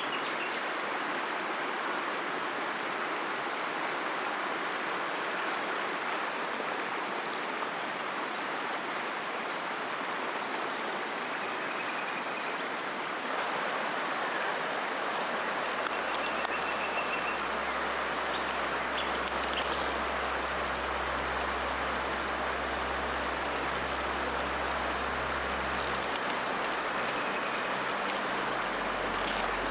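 River water flowing: a steady, even rush, with a low rumble joining about halfway through.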